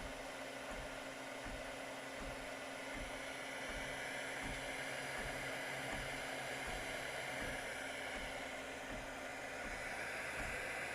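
3D printer with a DIY RC-servo direct drive extruder printing: steady fan hiss with short low pulses of the motors moving every half second or so.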